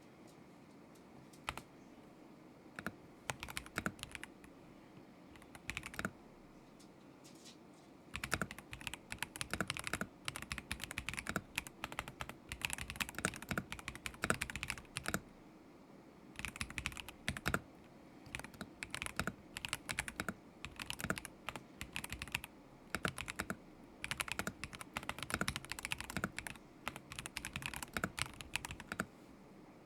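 Typing on a KZZI K75 Pro mechanical keyboard with Moment linear switches. A few scattered keystrokes come first, then steady runs of typing from about eight seconds in, broken by short pauses.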